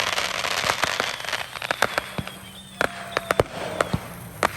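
Fireworks and firecrackers going off: a dense crackling fizz that dies away over the first second and a half, then a run of separate sharp pops and cracks.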